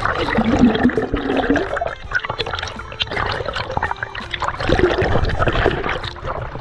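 River water splashing and gurgling close to the microphone.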